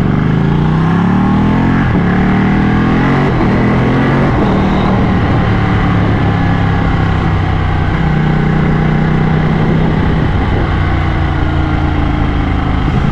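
Ducati motorcycle engine accelerating, its pitch rising in steps through gear changes over the first few seconds, then running at a steady cruise, with wind noise throughout.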